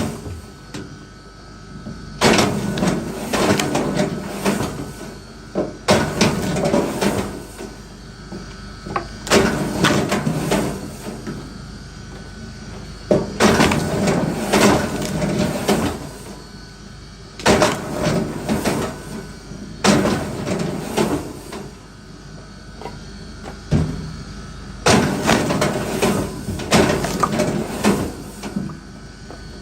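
Bursts of wooden knocking and clatter, each a second or two long, recurring every three to four seconds as wood is worked by hand.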